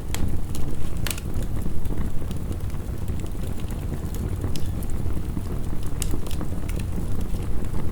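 Wood fire crackling, with scattered sharp pops (the strongest about a second in), over a dense, steady low rush of heavy rain.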